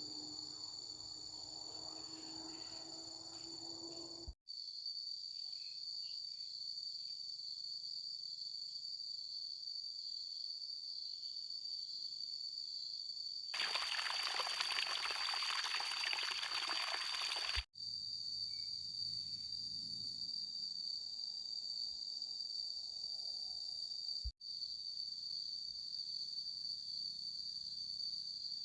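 Steady high-pitched chorus of crickets, with about four seconds of water pouring and splashing a little past the middle.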